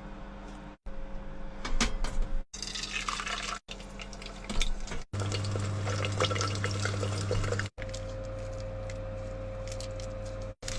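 Cooking in a run of short clips: water pouring and bubbling in a pot, over the steady hum of a small extractor-fan motor. The sound drops out abruptly several times between clips.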